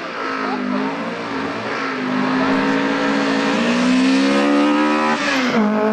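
Opel rally car's engine running hard at high revs, its pitch climbing slowly. About five seconds in the revs drop sharply, then hold steady at a lower pitch.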